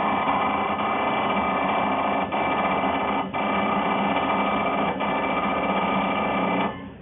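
Automatic balancing machine for subway brake discs running: a loud, steady mechanical noise with several steady tones, dipping briefly a few times, that stops shortly before the end.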